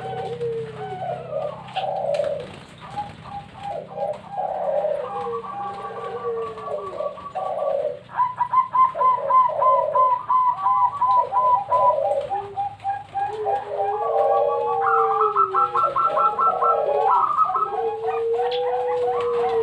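Several zebra doves (Bangkok perkutut) cooing at once, their calls overlapping: falling coos mixed with rapid strings of short, staccato repeated notes.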